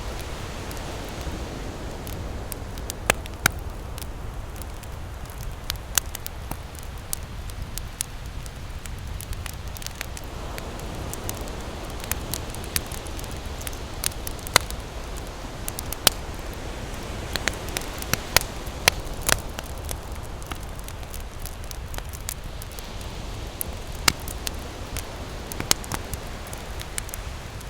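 Campfire crackling, with sharp irregular pops and snaps of burning wood, over a steady low rumble of ocean surf that swells softly a couple of times.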